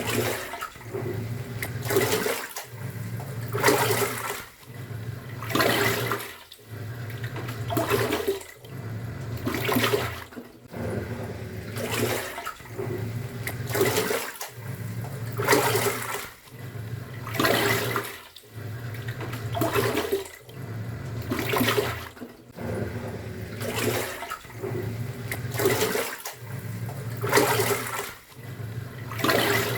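Top-loading pulsator washing machine agitating a load: a motor hum starts and stops, and water sloshes as the drum churns. This repeats about once every two seconds.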